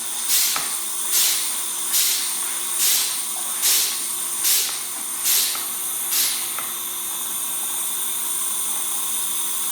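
Hand-pumped oil extractor being pumped to draw engine oil out of a lawnmower, each stroke giving a hiss of air, eight strokes about one every 0.8 s. The pumping stops about six seconds in, leaving a steady, quieter hiss as the vacuum keeps pulling.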